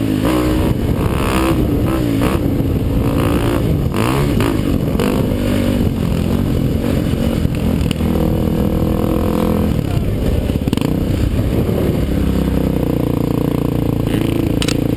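Racing ATV engine revving, its pitch rising and falling over and over as the throttle is worked through the motocross track.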